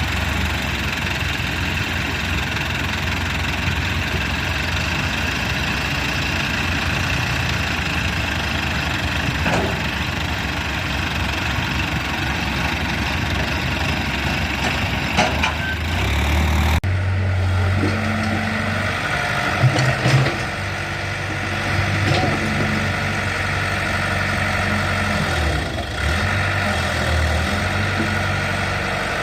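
Tractor engine running steadily, with the sound changing abruptly about two-thirds of the way through.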